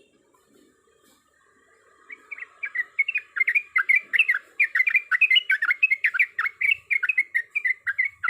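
Yellow-vented bulbul (trucuk) singing: a loud, rapid run of short chattering notes that starts about two seconds in and keeps going.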